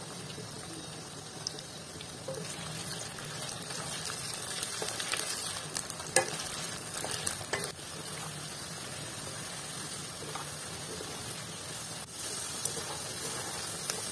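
Potato pieces frying in hot mustard oil in a non-stick kadai: a steady sizzle with crackles. In the middle there are a few sharper clicks as a metal slotted spoon stirs them against the pan.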